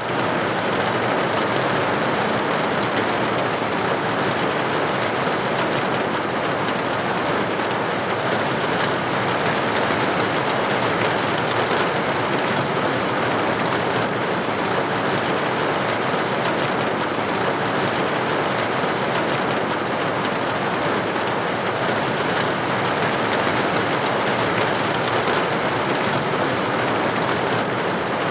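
Steady rain falling on a hard surface: an even hiss flecked with many small drop impacts, unchanging throughout.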